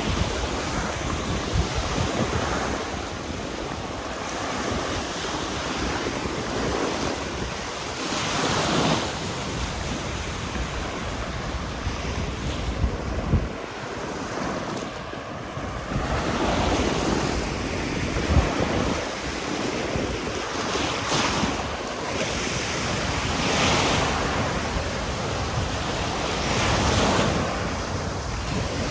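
Waves breaking and washing up on a sandy beach, the surf swelling every few seconds, with wind rumbling on the microphone. A few short knocks stand out briefly.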